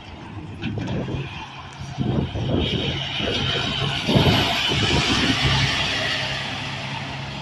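Heavy truck driving past. Its engine rumble and tyre noise swell to a peak about four seconds in, then fade.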